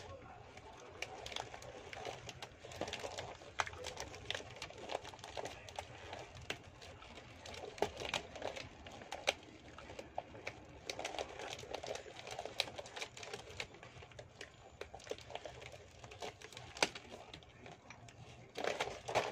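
Close-up eating sounds: a person chewing rujak petis, raw fruit and vegetables in shrimp-paste sauce, with many irregular crisp clicks and crunches.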